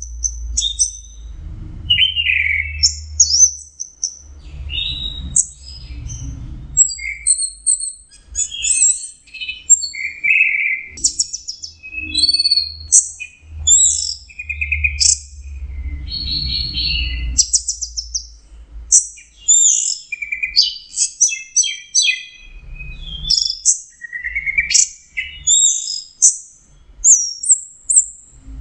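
Orange-headed thrush singing a fast, continuous, varied song of chirps, trills and whistles with no pauses, the bird in full song ('teler'). A low rumble comes and goes underneath.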